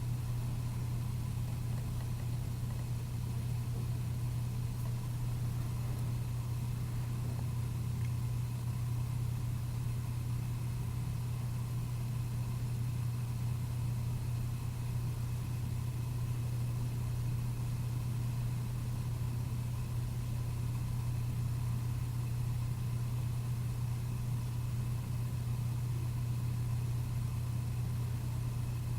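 A steady, unchanging low mechanical hum, like an idling engine.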